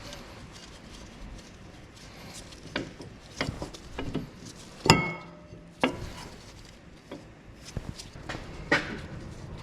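Scattered metal clinks and knocks from handling hand tools and parts. The loudest, about five seconds in, is a sharp clank that rings briefly.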